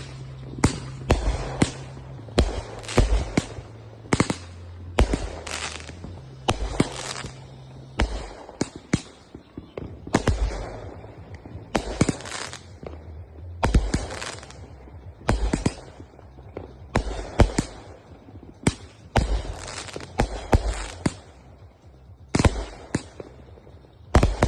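Consumer fireworks going off: a steady run of sharp bangs, one every second or so and often two or three in quick succession, some followed by a brief crackle.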